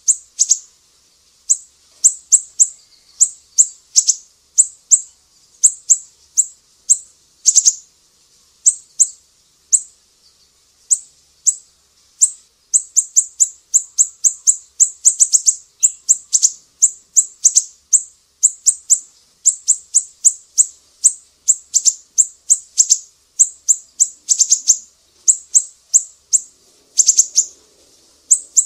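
Small bird chirping: a fast string of short, high, sharp notes, each falling quickly in pitch, coming in quick clusters with brief gaps between them.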